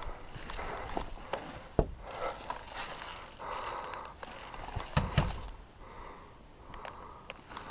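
Footsteps and rustling movement through brush, with two sharp knocks, about two and five seconds in, standing out above them.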